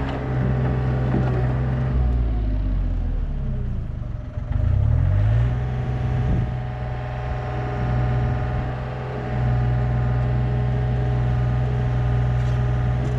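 Yanmar B37 mini excavator's diesel engine running steadily as the machine works. About two seconds in, the engine speed sags, and it picks back up about five seconds in.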